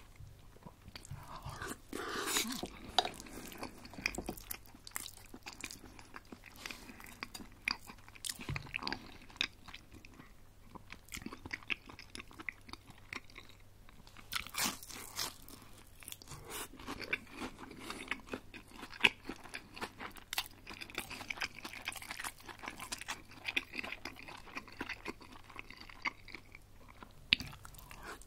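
Close-miked chewing of crispy breaded chicken schnitzel: a steady run of small wet clicks and crunches, with louder crunchy bites about two seconds in and again around the middle.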